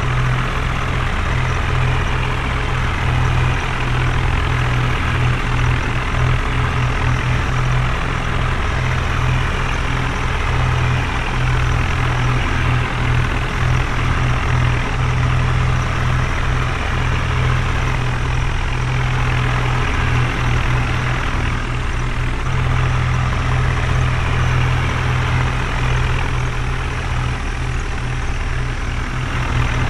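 Heavy diesel engine running steadily, a loud, constant low drone.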